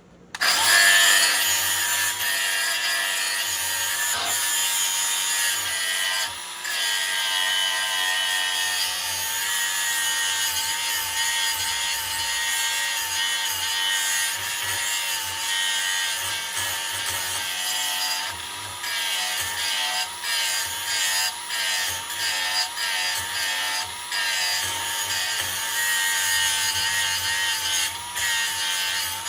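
Handheld electric grinder starting up about half a second in and then grinding the edge of a steel mulching mower blade, a steady motor whine that wavers slightly as the disc bites into the metal.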